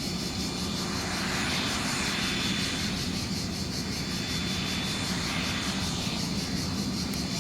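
Twin turbofan engines of a Cessna Citation CJ3 business jet running: a steady rushing noise with a thin high whine.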